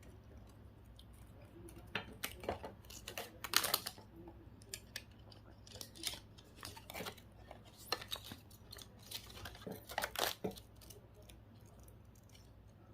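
Scattered clicks, snips and scrapes of hand tools and small electronic parts being handled while a GPS unit is taken apart, in short clusters with quiet gaps between.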